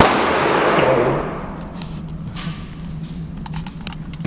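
A single handgun shot at a shooting range, sharp at the start, with a loud echoing tail that dies away over about a second and a half. A few fainter sharp cracks follow later.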